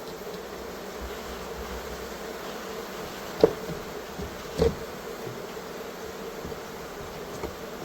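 A disturbed honeybee colony buzzing steadily, a massed hum of many bees. Two sharp knocks a little over a second apart cut through it near the middle.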